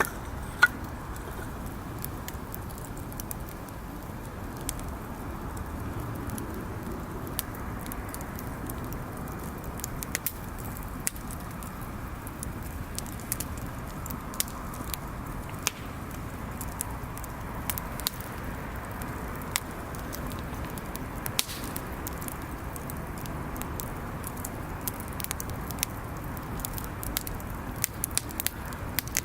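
Wood bonfire burning: a steady low rush of flame with irregular sharp crackles and pops, a cluster of louder snaps near the end.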